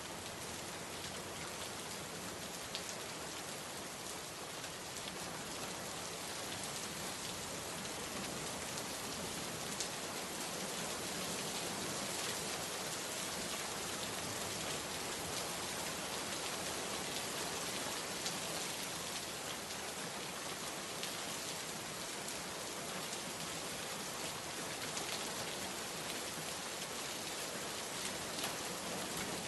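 Steady heavy rain falling, an even dense hiss with occasional sharper drop ticks.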